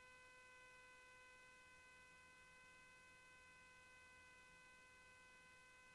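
Near silence, with only a faint steady electrical hum held at one pitch.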